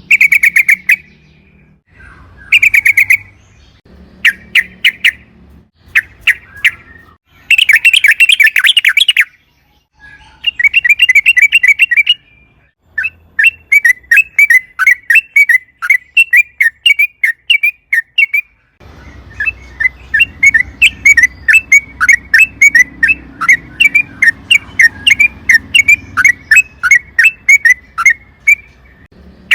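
Yellow-vented bulbul calling: short bursts of fast chattering notes, then a long run of repeated sharp chirps about three a second. A low background rumble joins about two-thirds of the way in.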